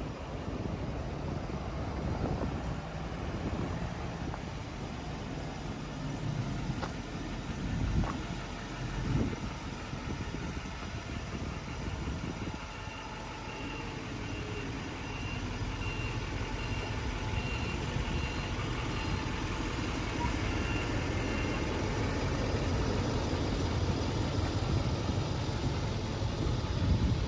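Truck engine idling with a steady low rumble, with two thumps a little over a second apart about eight seconds in. Through the middle, a reversing alarm beeps repeatedly for several seconds.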